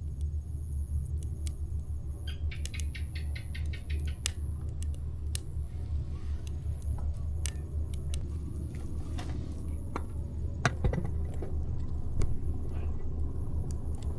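Wood campfire burning: scattered sharp crackles and pops over a steady low rumble, with a brief quick rattling run of about seven ticks a second some two seconds in.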